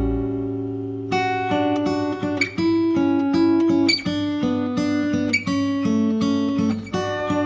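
Acoustic guitar music: a held chord fades, then picked and strummed notes follow at a steady pace.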